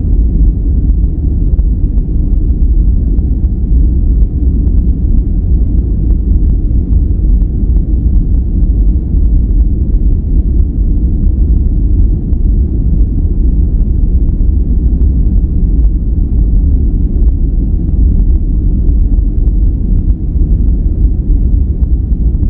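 Steady deep rumbling noise, heavy in the bass with almost no treble, unchanging throughout: a low-passed white noise (brown-noise-like) track for sleep and relaxation.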